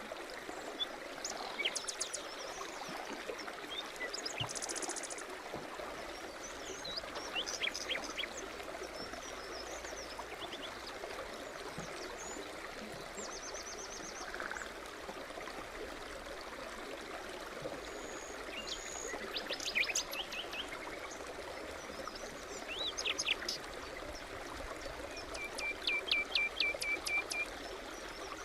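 A forest brook babbling steadily, with several small songbirds calling and singing over it in short chirps and trills, one a run of quick repeated notes near the end.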